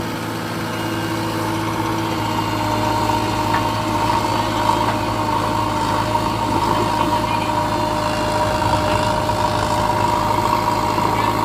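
Diesel engine running steadily at a constant speed, a deep hum with a steady higher whine over it.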